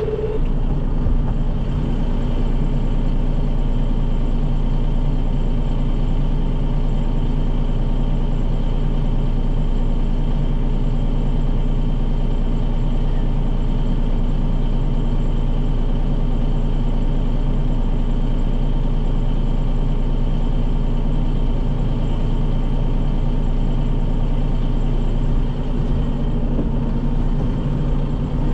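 Farm tractor's diesel engine running steadily at an even speed, a loud low drone with no change in pitch.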